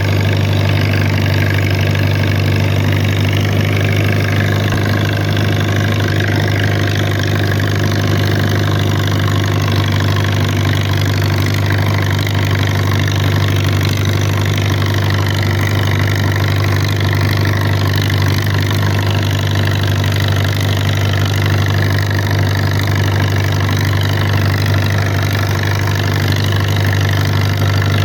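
Someca SOM 40 tractor engine running at a steady speed, worked on a slope to clear out carbon deposits. The engine note stays even, with no change in speed.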